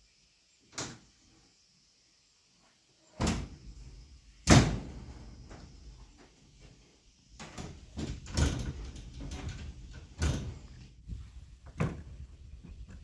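Irregular knocks and thuds of wooden window parts being handled and fitted together, the loudest one about four and a half seconds in, with a low scraping rumble of wood sliding between the knocks in the later part.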